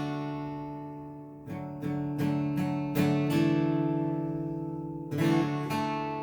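Instrumental guitar music: a chord rings and fades away, then several chords are strummed in quick succession and left to ring, with another strum near the end.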